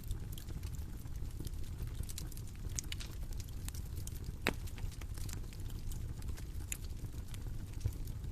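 Bonfire crackling: scattered sharp pops and snaps over a steady low rumble, with one louder pop about four and a half seconds in.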